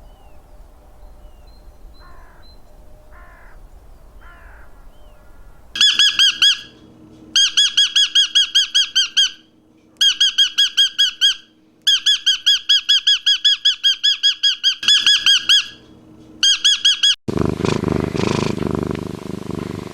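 A bird calling in loud, rapid trills of pitched notes, about seven notes a second, in bursts of one to two seconds with short gaps, after a few faint chirps. About seventeen seconds in, a rough, low, noisy animal sound takes over.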